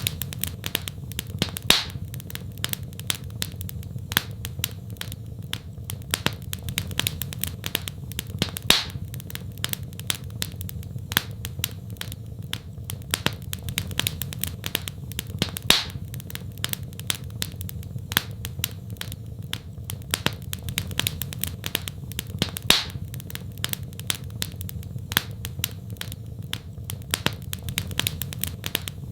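Wood fire crackling in a fireplace: irregular sharp snaps and pops, a few louder ones every couple of seconds, over a steady low rumble of the flames.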